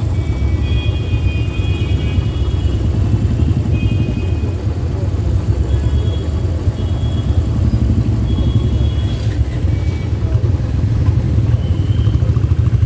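Steady low rumble of a motorcycle ride through city traffic, with a few short high beeps, mostly in the first few seconds.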